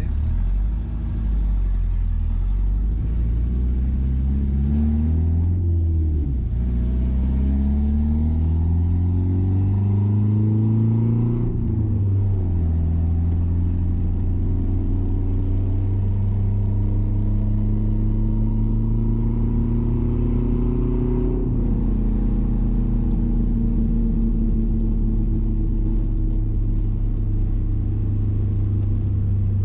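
Mazda B-series pickup's engine, fed by a Holley Sniper fuel injection system, accelerating through the gears, a run the driver calls obnoxious. The revs climb, fall at a gear change about six seconds in, climb again to a second change near twelve seconds, and rise slowly to a last change about twenty-one seconds in. After that it settles to a steady cruise.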